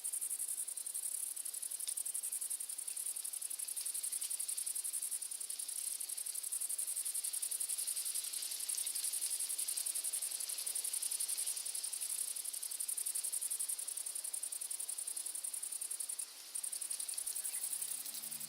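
Dense, steady high-pitched trilling of a chorus of singing insects, dropping out for a moment near the end. A soft low music chord comes in just before the end.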